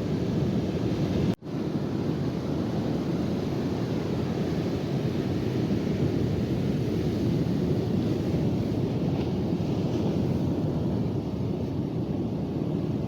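Wind buffeting the microphone over the steady rush of ocean surf, a dense low rumble that briefly cuts out once about a second in.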